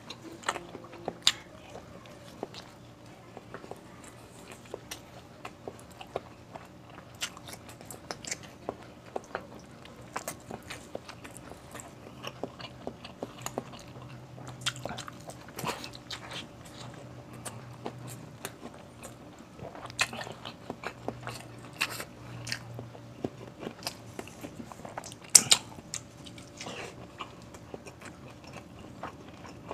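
Close-miked chewing and lip-smacking of a person eating tender beef stew and rice by hand: irregular wet smacks and clicks throughout, with one sharper, louder smack near the end.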